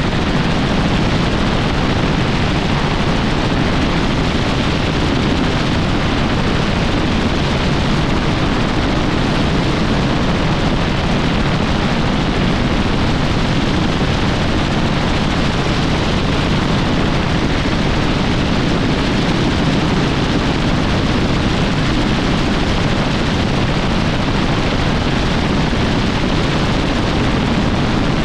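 Helicopter in flight: a loud, steady rush of rotor and engine noise that does not change.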